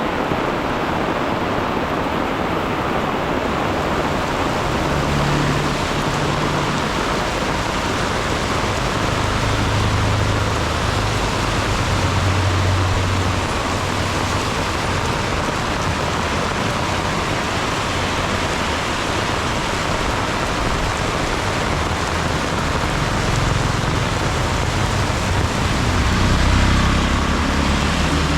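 Heavy rain falling in a steady, dense hiss, with the low hum of passing motor vehicles rising at times, most strongly near the end.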